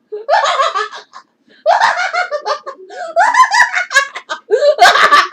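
Four short bursts of recorded human laughter in a row, hearty pulsing ha-ha laughs with brief pauses between them.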